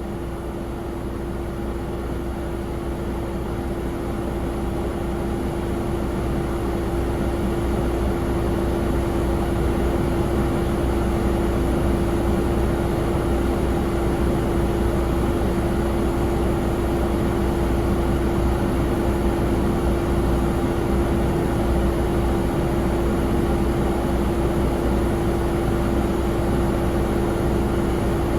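Jet airliner noise on the ground: a steady rumble with a steady mid-pitched whine and a faint high whine, growing louder over the first ten seconds or so, then holding steady.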